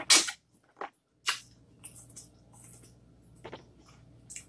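Close-up mouth sounds of eating boiled corn on the cob. There is a sharp bite just after the start, then a few scattered short smacks and clicks of chewing.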